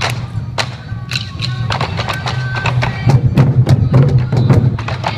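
Sansa odori drumming: many small taiko drums beaten in rapid, sharp strikes, with clacks of the sticks and a bamboo flute's high held notes over them. The drumming grows louder about three seconds in.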